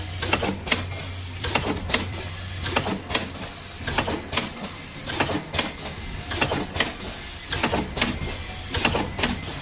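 Automatic tea-bag packing machine for filter-paper inner bags with string and tag plus outer bags, running: clusters of sharp mechanical clicks and clacks about every 1.2 seconds over a steady low hum, one packing cycle after another.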